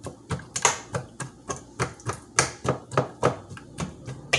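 A metal fork jabbing into raw seasoned chicken in the Instant Pot's steel inner pot, its tines clicking against the pot about four times a second.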